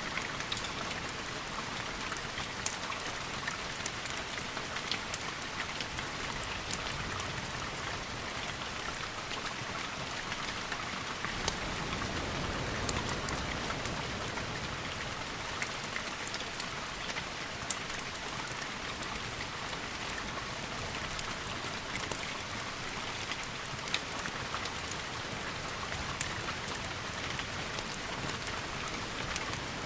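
Steady rain, with many sharp drop ticks scattered through it and a low rumble that swells briefly about eleven seconds in.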